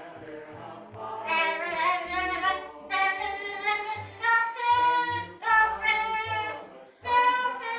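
Amazon parrot singing in a human-like voice: a run of short sung phrases whose pitch slides up and down, with brief pauses between them.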